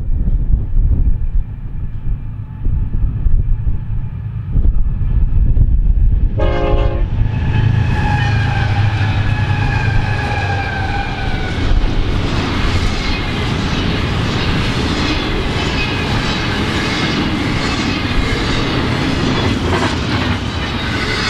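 A Union Pacific intermodal freight train with several diesel locomotives passing close at speed: a low rumble as it approaches, a horn blast about six seconds in, then a longer horn whose pitch sags slightly as the locomotives go by. Then the steady rush and clatter of double-stack container cars rolling past.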